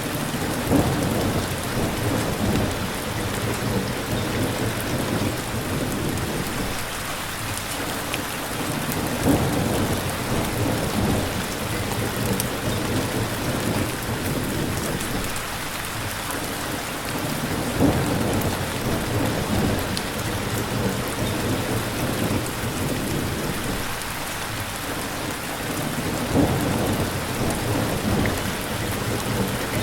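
Steady rain falling, with low rumbles that swell and fade about every eight or nine seconds.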